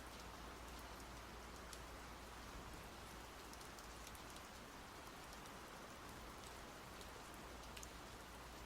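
Steady rainfall, soft and even, with scattered ticks of individual raindrops striking a surface.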